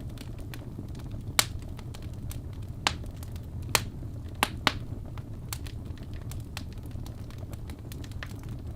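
Wood fire burning in a fireplace: a steady low rumble of flames under a run of small crackles, with several sharp pops from the burning logs, the loudest about a second and a half in and near the middle.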